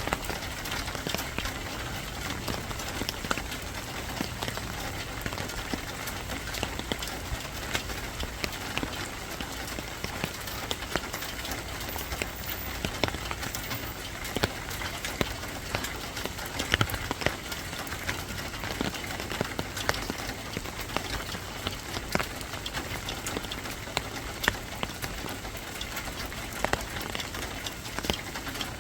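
Steady rainfall: an even hiss of rain with many irregular sharp drop ticks on a hard surface.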